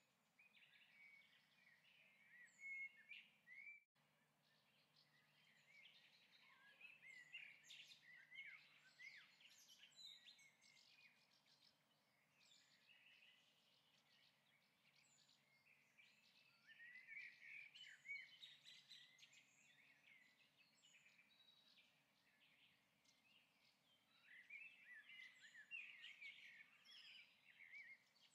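Faint bird chirping and twittering, high quick notes coming in spells every several seconds, with a brief dropout about four seconds in.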